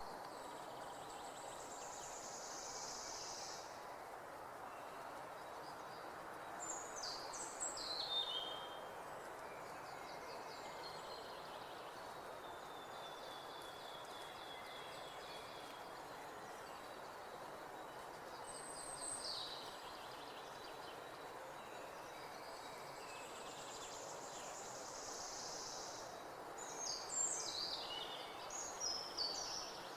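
Birds calling over a steady outdoor background hiss. A few short high chirps fall in pitch about seven to eight seconds in and again near the end, and a high buzz sounds in the first few seconds.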